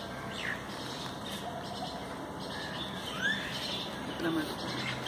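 Small birds chirping in the background: a few scattered calls, including a short rising chirp about three seconds in, over a steady outdoor hiss.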